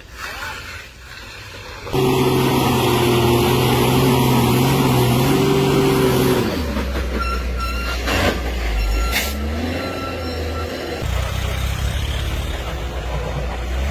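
Heavy truck on the road: a loud steady pitched drone starts suddenly about two seconds in and drops to a low engine rumble about six seconds in.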